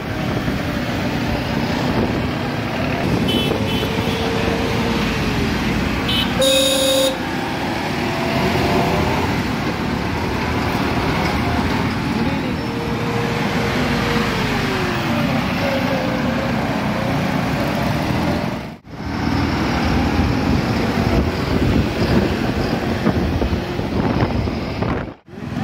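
New Holland 5630 tractor engine running on the road, with steady engine and road noise. A vehicle horn toots once, briefly, about six seconds in.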